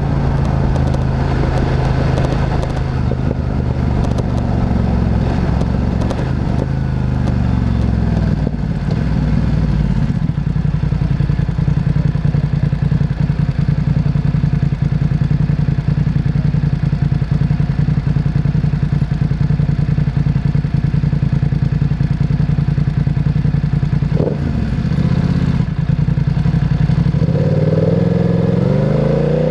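Motorcycle engine running under way. Its pitch drops about seven seconds in, holds steady for a long stretch, then rises again near the end as the bike speeds up.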